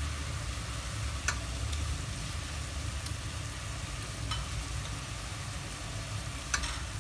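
Whole shrimp sizzling in an aluminium pot: a steady frying hiss with three sharp pops, over a low steady rumble.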